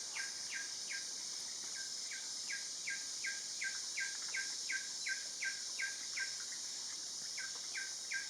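A bird repeating short, evenly spaced falling notes at about three a second, pausing briefly twice, over a steady high-pitched insect drone.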